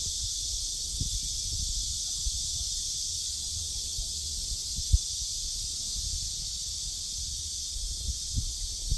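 Summer cicadas buzzing in a continuous, steady high drone, with irregular low thumps underneath and one sharper thump about five seconds in.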